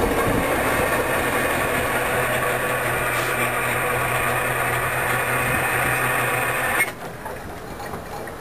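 A receding VIA Rail passenger train: a steady rumble of wheels on rail with a low hum, which drops off abruptly about seven seconds in, leaving a fainter background hiss.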